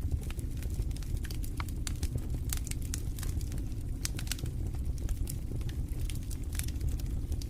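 Wood fire burning in a fireplace: a low, steady rumble of flames with many sharp, irregular crackles and pops.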